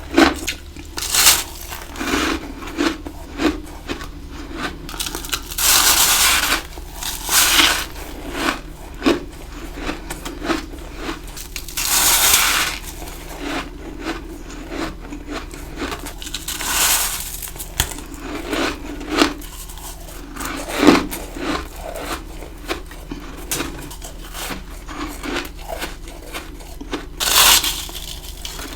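Ice being bitten and chewed close to the microphone: a run of short crunches, broken up by several louder, longer crunching bites.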